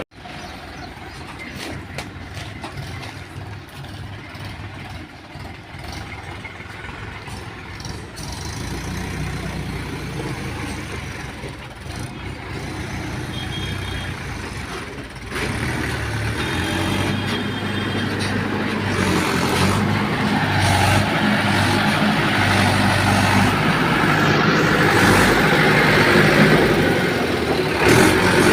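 Heavy diesel machinery engines running, from the backhoe loader and tractor at work. The engine sound steps up sharply about halfway through and grows louder toward the end.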